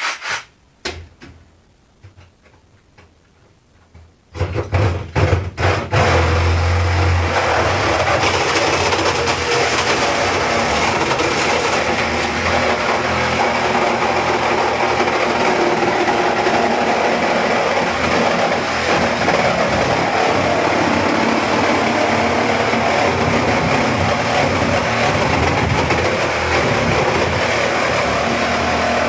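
A few clicks and knocks, then a cordless reciprocating saw starts in several short bursts about four seconds in and runs continuously, cutting into the refrigerator's cabinet.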